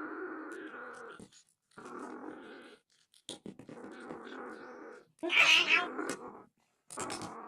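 Don Sphynx cat growling in a string of long, rough bouts with short breaks between them, with one louder, higher yowl a little past the middle.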